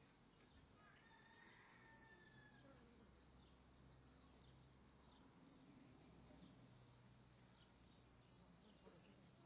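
Near silence: faint outdoor ambience with scattered bird chirps and twitters.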